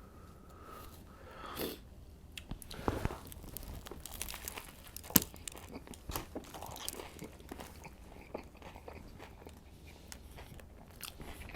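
A person biting into and chewing a Subway tuna sub close to the microphone: a run of crunches and wet chewing sounds, with one sharp crunch about five seconds in.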